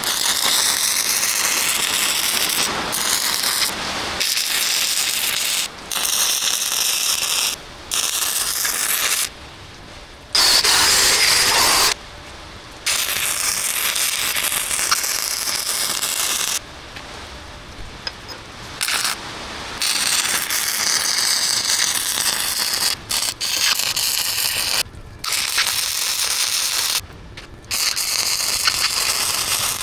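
A 110-volt flux-core wire welder arcing in repeated bursts of a few seconds, a steady crackling hiss that cuts in and out sharply as each bead is started and stopped. It is welding reinforcement strips of 1/4-inch bar steel onto the bucket.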